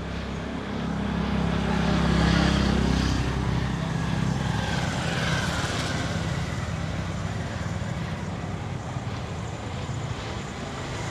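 Motor vehicle engine passing close by on a street, growing loudest about two seconds in, then easing into a steady running hum with traffic noise.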